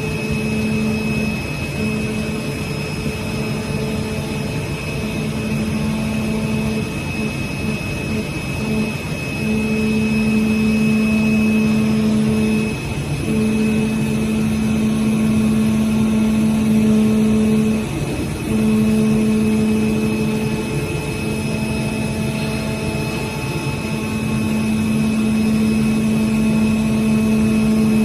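CNC oscillating-knife cutting machine running, over a steady machine hum and a thin high whine. A humming tone runs for a few seconds at a time, breaks off briefly, then starts again, over and over.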